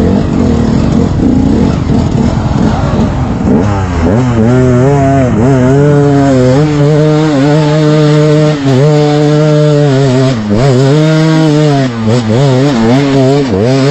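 Off-road motorcycle engine revving hard: rough and uneven for the first few seconds, then held at high revs with a steady, wavering note, dipping briefly now and then.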